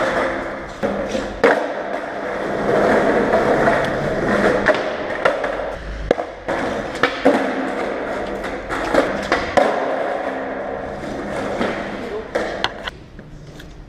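Skateboard wheels rolling over rough car-park tarmac, broken by several sharp clacks of the board hitting the ground from tricks and landings; the rolling dies away near the end.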